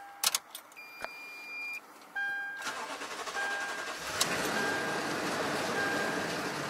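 Toyota Tundra's 5.7 L V8 cranking and catching on its first start after a timing chain replacement, then running with a noisy clatter from the hydraulic chain tensioners, which are still empty of oil. Near the start there are a couple of clicks, and a dashboard chime beeps about once every second and a bit throughout.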